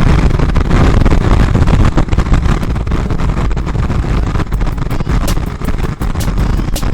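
Motorcycle riding at highway speed: a loud, steady rumble of wind buffeting the rider's microphone over engine and road noise, with short crackles in the second half.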